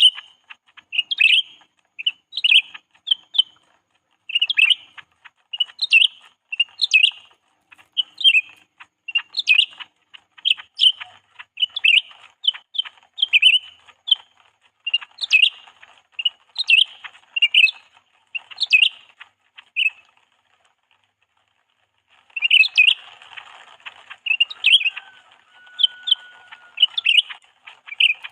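Decoy songbird calling: short, sharp chirps in quick repeated runs, about one or two a second, breaking off for about two seconds about two-thirds of the way through and then starting again.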